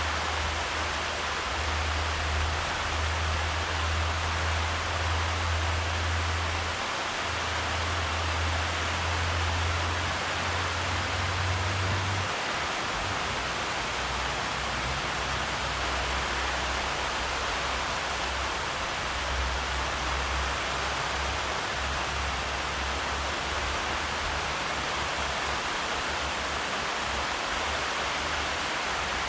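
Steady rain falling, an even continuous hiss, with a low rumble underneath that is stronger for roughly the first twelve seconds.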